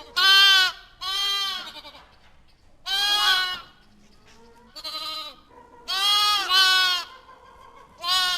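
Goat bleating: a series of about six bleats, each lasting up to a second, with short pauses between them.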